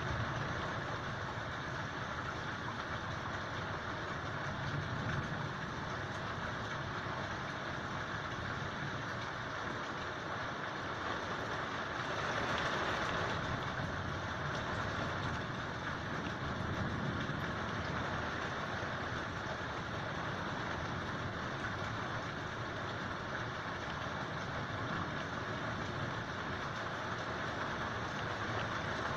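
Steady rain falling at night, with a low rumble swelling now and then.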